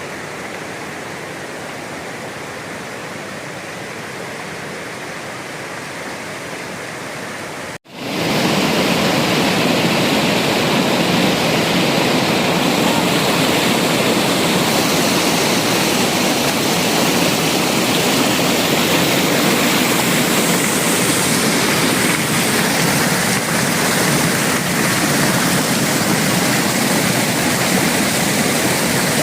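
Waterfall: a steady rush of falling water. About eight seconds in it breaks off for a moment and comes back noticeably louder.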